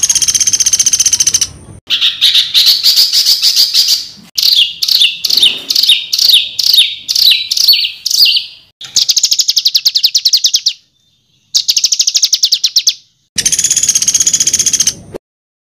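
Songbird song from a masteran (tutor) recording: harsh, rapid-fire phrases, fast high trills and chattering bursts, each cut off by a short gap of silence, with a run of quick downward-sliding notes in the middle.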